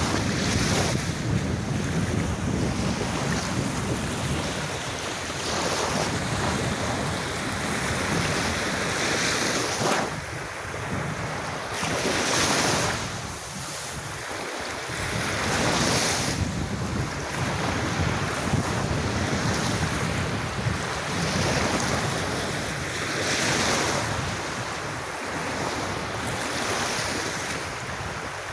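Sea waves washing onto a beach in a continuous surf, swelling and breaking every few seconds, with wind buffeting the microphone.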